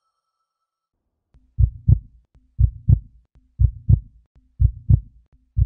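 A heartbeat: paired low thumps in a lub-dub rhythm, about one beat a second, starting about a second and a half in after silence.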